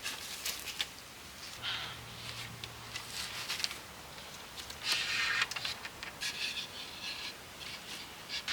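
Irregular scraping and rustling with scattered light clicks, the loudest burst about five seconds in: materials being handled during hands-on shelter building.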